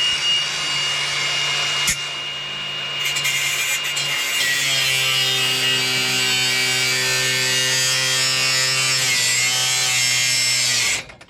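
Angle grinder cutting through a rusted exhaust bolt, running continuously with a steady motor hum under a harsh grinding hiss. The motor's pitch drops slightly about four seconds in, and it cuts off just before the end.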